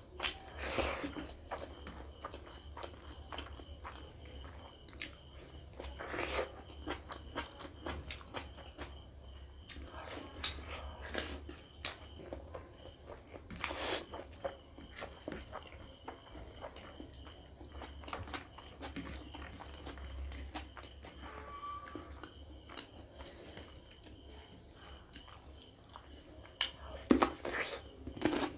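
Close-miked eating: chewing mouthfuls of rice and pork ribs curry, with many short wet clicks and a few louder bites about a second in, around the middle, and in a cluster near the end.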